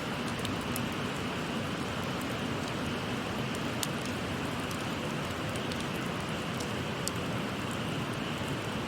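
Shallow stream babbling steadily, with a wood campfire crackling over it in scattered sharp pops.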